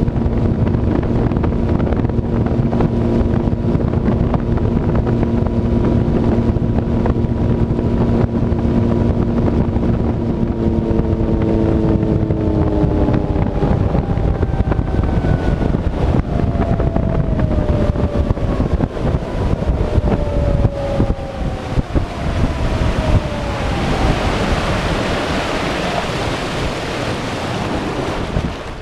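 Suzuki DF150 four-stroke outboard running steadily at high revs with heavy wind on the microphone, then about twelve seconds in its pitch falls steadily as the throttle comes back and the boat slows. Near the end a rushing water sound swells as the engine note fades.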